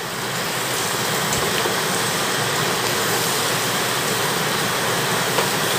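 Chicken pieces sizzling steadily as they fry dry in masala in a kadai, stirred with a metal spatula that gives a few faint scrapes.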